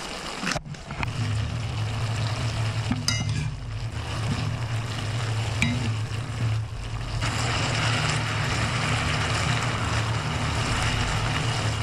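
Julienned burdock root sizzling in a frying pan as it is stir-fried, with a few light clicks of chopsticks and a spoon against the pan and a steady low hum underneath. The sizzle grows louder about seven seconds in.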